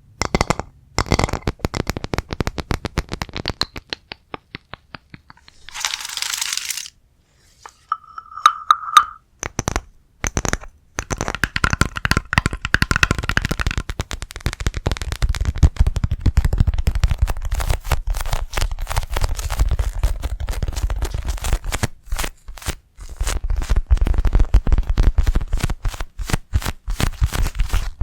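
Close-miked ASMR trigger sounds: rapid tapping and crackling clicks on objects, in dense runs, with a short hissing burst about six seconds in.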